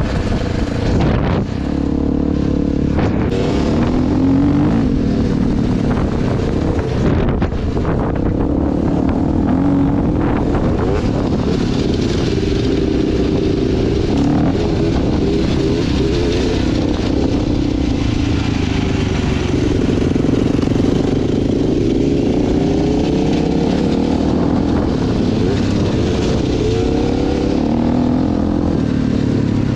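Dirt bike engine running as the bike is ridden, its pitch rising and falling with the throttle over several seconds, with wind and road noise.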